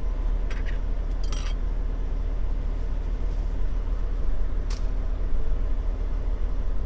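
Steady low rumble of an idling truck engine, with a few light clicks and a brief ringing clink of tableware about a second and a half in.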